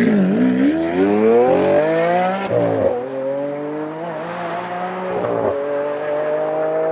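Lamborghini Aventador's 6.5-litre naturally aspirated V12 accelerating: the revs climb, drop at a gear change about two and a half seconds in, climb more slowly, and drop again at a second shift near the end before rising once more.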